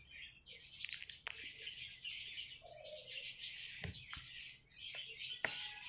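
Many small aviary birds chirping and twittering together in a continuous high chatter, with a few sharp clicks.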